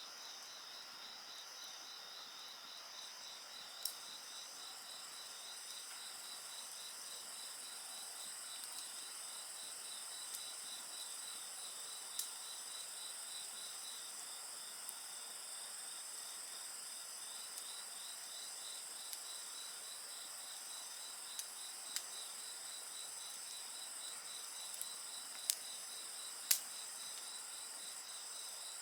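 Insects chirring steadily in a high, continuous chorus, one voice in a fast pulsing trill, over a wood fire that gives an occasional sharp pop, a few of them scattered through, the loudest near the end.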